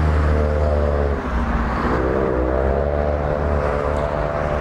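A motor vehicle engine running in the background over a steady low hum. Its pitch drops about a second in and climbs again, as when a vehicle slows and then speeds up.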